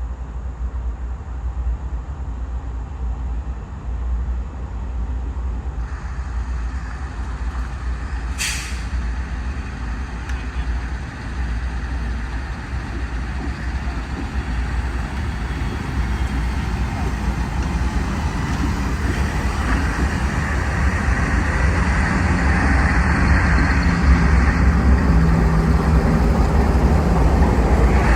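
Steady vehicle rumble with a short, sharp hiss about eight seconds in, growing louder over the last dozen seconds.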